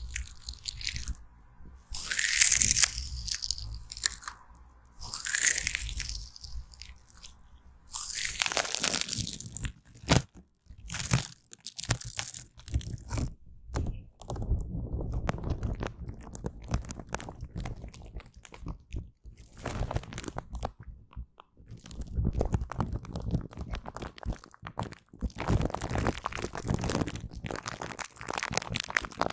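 Close-miked rubber glove being rubbed and squeezed in short bursts of crinkly hiss. About nine seconds in it gives way to aloe vera gel being wiped and smeared, a denser, lower, continuous crackle that swells and fades.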